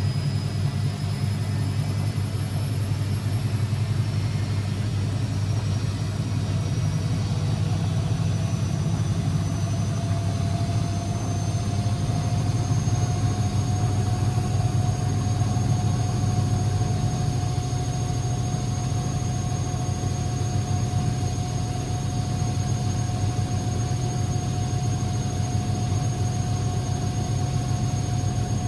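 Constructa Energy 1000s washing machine running without a break, a steady low hum under a motor whine that climbs slowly in pitch over the first half and then holds steady, typical of the drum speeding up into a spin.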